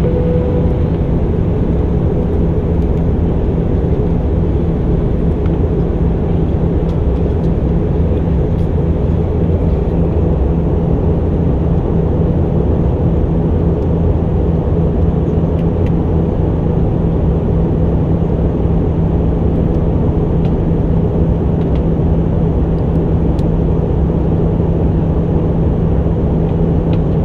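Steady cabin noise inside an Airbus A319 airliner in descent: the rush of air and the engines, with a constant low hum under it.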